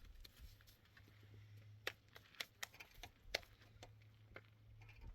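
Irregular light clicks and knocks, about a dozen, the sharpest about two and three and a half seconds in, over a faint low hum.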